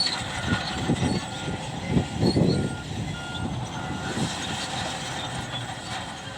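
Heavy earthmoving machinery working, its diesel engines running with low rumbling surges. Midway through, a reversing alarm beeps several times at an even pace.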